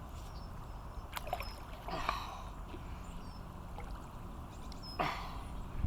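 Water splashing a few times as a hooked carp thrashes at the surface near the landing net, over a steady low rumble.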